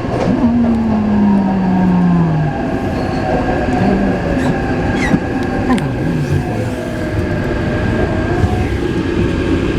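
Taipei Metro C381 train running on the track, with the electric whine of its inverter-driven motors over wheel and rail noise. A strong tone falls in pitch over the first two seconds or so, and wavering higher tones follow.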